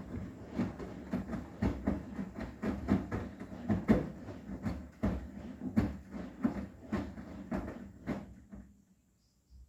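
Arçelik 9120M front-loading washing machine washing cushions: the drum turns and the wet cushions tumble inside it, making irregular thuds and knocks, several a second. The drum stops near the end.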